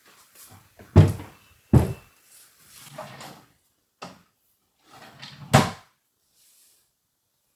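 A series of knocks and thuds from things being handled, about five over several seconds: two loud ones close together near the start and another loud one near the end, with softer rustling between.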